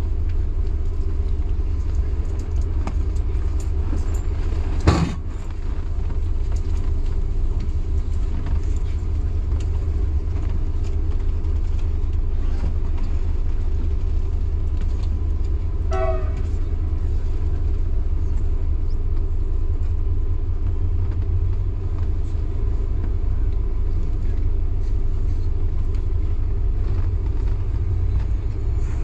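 A local passenger train running along the rails with a steady low rumble. A single sharp knock comes about five seconds in, and a brief pitched squeal or toot around sixteen seconds in.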